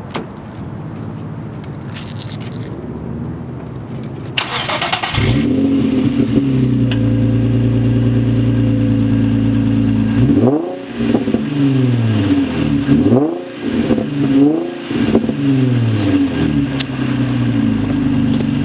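Infiniti G35's V6 with a muffler delete cranked over by the starter about four seconds in, catching and settling into a steady idle. Then several short, light revs rise and fall before it drops back to idle.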